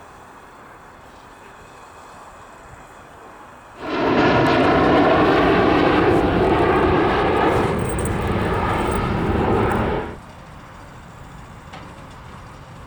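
Private jet's engines, loud and steady, starting suddenly about four seconds in and cutting off abruptly about six seconds later.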